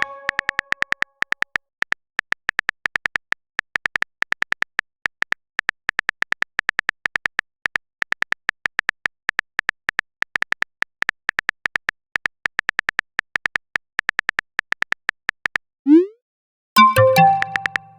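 Chat-app typing sound effect: rapid, irregular short clicking beeps. Near the end a short rising blip and a chime, like a message being sent and arriving.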